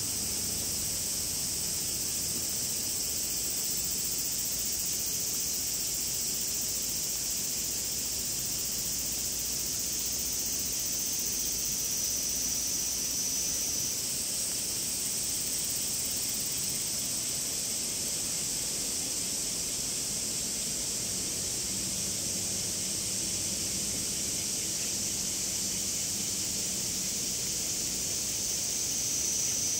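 Cicadas calling in a steady, shrill chorus. A thinner, higher tone joins for a few seconds partway through and again at the end.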